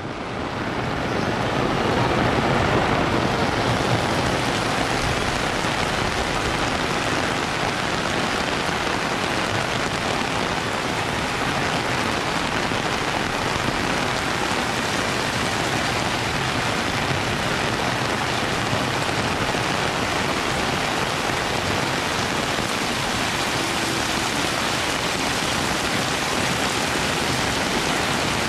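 Heavy rain pouring steadily, a dense even hiss that fades in over the first couple of seconds.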